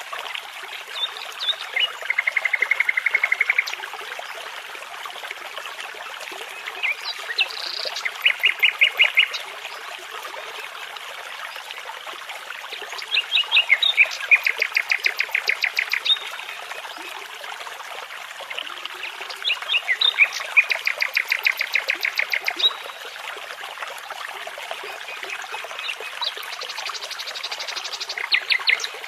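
Nightingale singing in short phrases of rapid repeated notes, five phrases spaced a few seconds apart, over the steady rush of a babbling brook.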